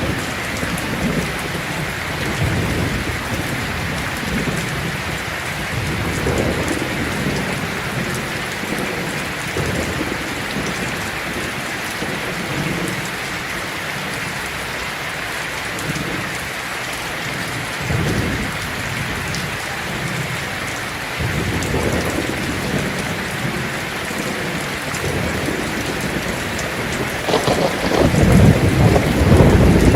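Heavy rain falling on a tin roof as a steady hiss, with low rolling thunder coming and going, and a louder rumble of thunder building near the end.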